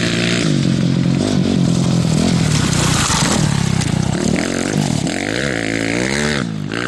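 Off-road motorcycle engine revving up and down, its pitch rising and falling several times in the second half as the throttle is worked.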